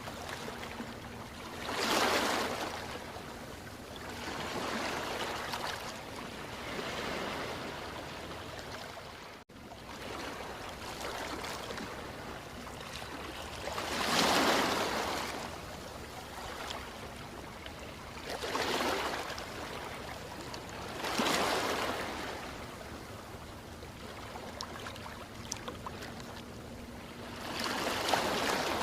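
Ocean waves washing ashore: a steady rush of surf that swells louder as a wave breaks, five times.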